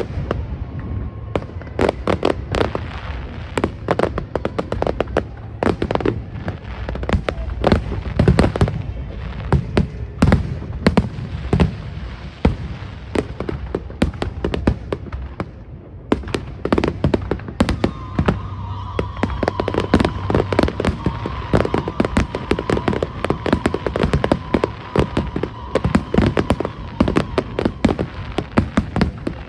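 Aerial fireworks going off in a dense, rapid run of bangs and crackles, thinning briefly around halfway. A faint steady tone joins about two-thirds in.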